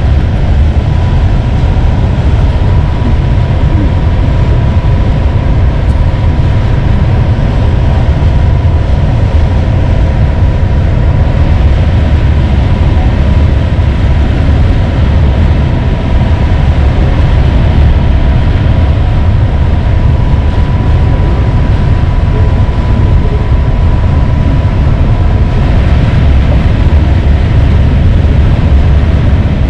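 Steady low rumble of a passenger train running, heard inside the coach, with a faint steady whine above it.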